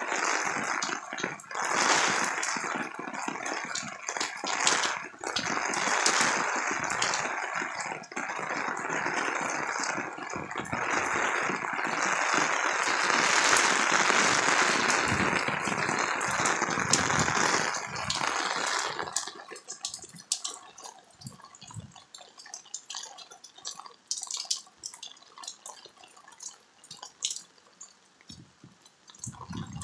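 Heavy rain pouring, with water streaming and dripping off the roof eave onto a wooden deck. About two-thirds of the way through, the steady rush drops away to lighter, scattered drips.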